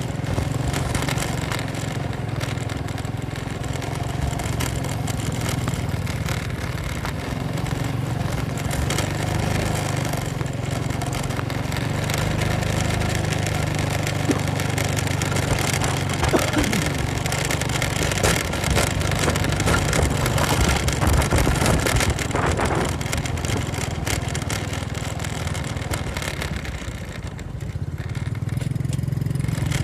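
Motorcycle engine running steadily while riding, with scattered knocks and rattles midway through.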